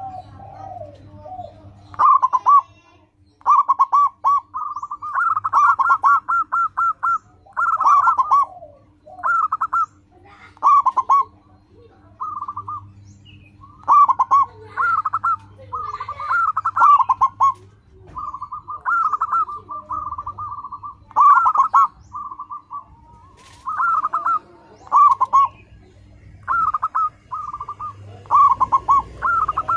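Zebra dove (perkutut) singing its cooing song: phrases of quick staccato coos, repeated again and again with short pauses between, starting about two seconds in.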